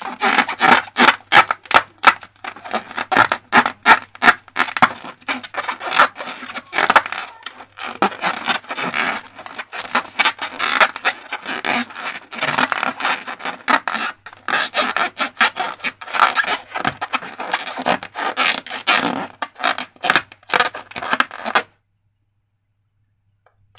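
Slime being worked and stirred, with rapid, irregular sticky scraping and crackling; it stops suddenly about two seconds before the end.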